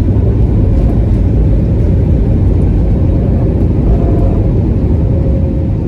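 Cabin noise of an Airbus A321 on its takeoff run: engines at takeoff thrust with a heavy, steady low rumble and a faint steady whine.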